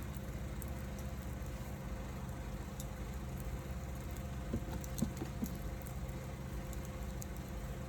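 Wood fire burning, with scattered small crackles and a few louder pops about halfway through, over a steady low rumble.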